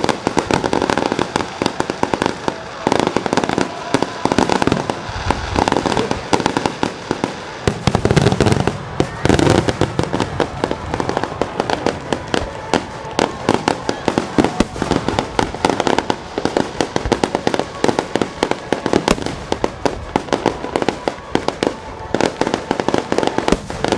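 Fireworks finale barrage: many shells bursting in rapid, overlapping cracks and bangs without a break, with heavier, deeper booms about five to ten seconds in.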